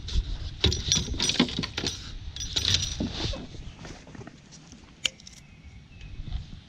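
Small hard objects clinking and rattling: a quick run of clicks for about three seconds, then one sharp click about five seconds in.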